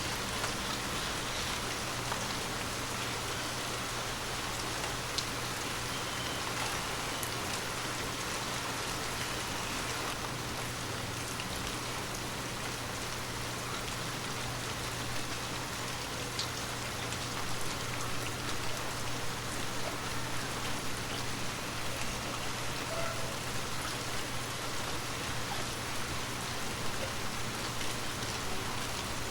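Heavy rain falling steadily: a dense, even hiss with scattered individual drops ticking, over a steady low hum.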